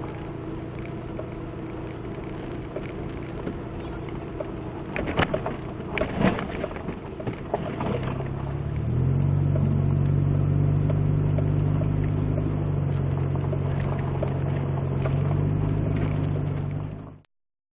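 A steady, low mechanical hum with a few clicks and knocks partway through. It becomes louder and more strongly pitched about nine seconds in, then cuts off abruptly near the end.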